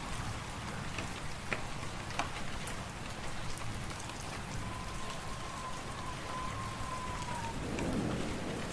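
Wood fire crackling in a fireplace, sharp pops scattered over a steady windy hiss. A thin whistling tone holds for about three seconds past the middle, dipping as it fades.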